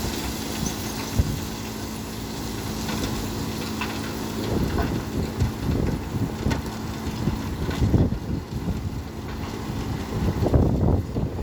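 Heavy truck engine running steadily, with wind gusts buffeting the microphone from about four seconds in.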